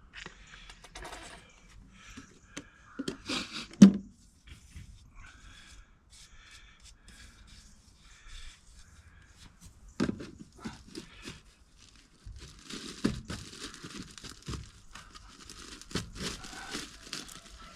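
Plastic drain pipe fittings being handled and worked into place: scattered scrapes, rustling and knocks, with one sharp knock about four seconds in and denser rustling and scraping near the end.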